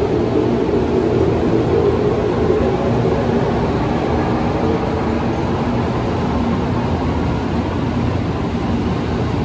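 Steady running noise of a train: a continuous low rumble with a faint hum over it that fades a few seconds in.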